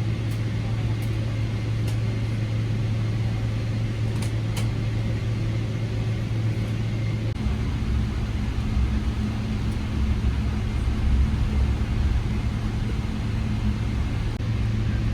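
Cabin noise inside a Boeing 777-300ER airliner: a steady hum with a deeper low rumble that grows stronger about halfway through. A few faint light clicks sound in the first few seconds.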